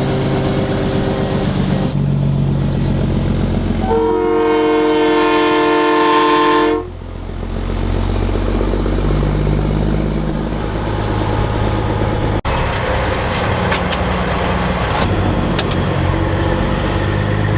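A loud multi-tone air horn, train-style, is held for about three seconds over the steady rumble of diesel semi-truck engines. The horn cuts off sharply.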